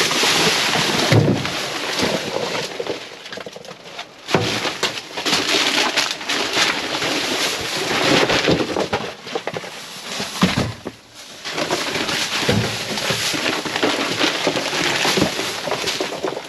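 Rummaging through a dumpster: rustling and crinkling of bags and junk with repeated knocks and clatter of items being shifted and pulled out.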